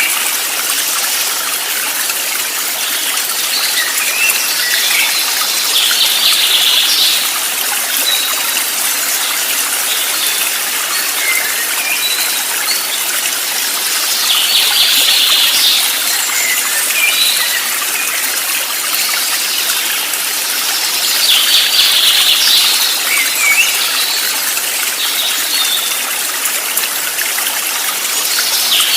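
Steady rush of flowing water, with birds chirping over it. A denser flurry of bird calls comes back about every seven or eight seconds.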